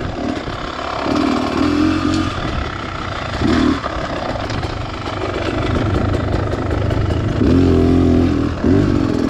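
Beta Xtrainer 300's two-stroke single-cylinder engine being ridden off-road, revving up in several short bursts of throttle with lower running between them.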